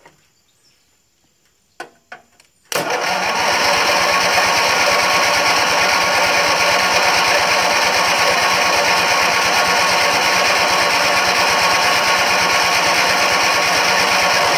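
Electric starter cranking a lawn tractor's Briggs & Stratton 14 HP opposed-twin engine, with the choke on. It cuts in about three seconds in and cranks steadily for some twelve seconds without catching, then stops abruptly. The engine won't start, which the owner puts down to either an electrical fault or stale fuel left in it.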